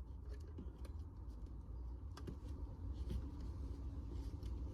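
Faint scattered clicks and light taps over a low, steady rumble.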